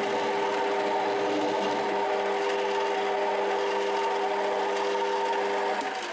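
Rotwerk 7x14 mini lathe running with a steady, multi-pitched whine from its motor and gear train. The whine stops near the end as the lathe is shut off and spins down.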